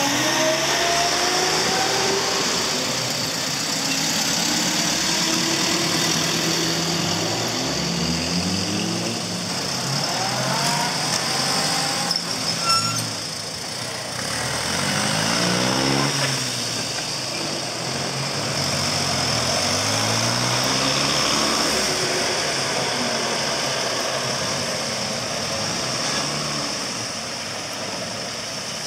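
Engines of a line of vintage cars running at low speed as they roll past one after another, the engine notes rising and falling as each car pulls away. A brief sharp knock comes about halfway through.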